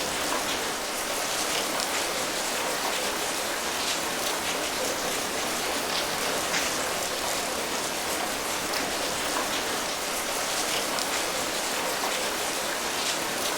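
Steady rain falling: an even hiss with a patter of individual drops scattered through it.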